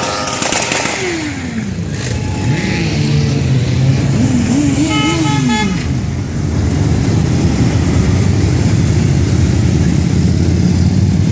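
Motorcycle engines passing with falling pitch and then running in a steady low rumble. A horn toots briefly about five seconds in.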